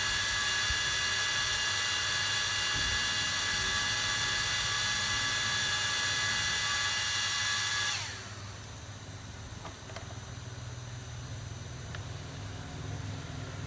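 A small electric repair tool running with a steady whining hiss, switched off about eight seconds in, after which only a low hum remains.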